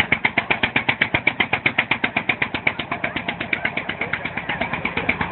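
Engine running with an even, rhythmic chugging, about eight beats a second.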